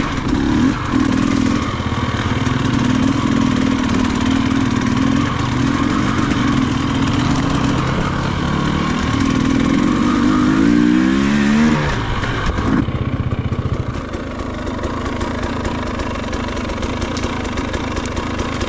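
Off-road motorcycle engine on the move, pitch rising and falling with the throttle and climbing in a rev about ten seconds in; a little before the halfway point of the last third it drops suddenly and settles into a steady idle.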